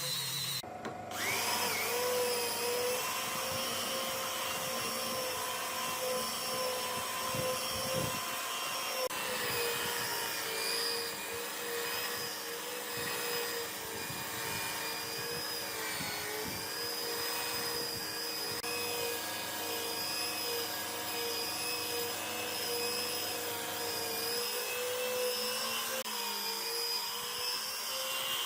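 Electric power tool running steadily with a motor whine whose pitch wavers slightly. It breaks off briefly about a second in.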